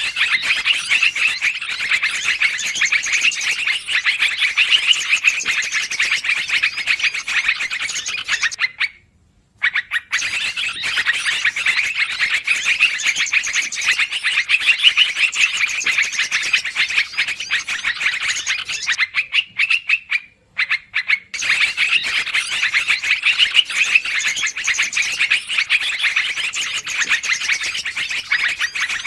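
Trucukan (yellow-vented bulbul) calls played as a bird-trapping lure: dense, busy chattering made of rapid chirps, with two brief breaks about 9 and 20 seconds in.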